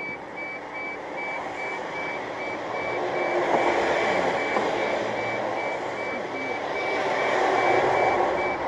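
A rapid, evenly spaced electronic beep at one high pitch, repeating steadily, over the rumble of vehicle engine and road noise that swells twice.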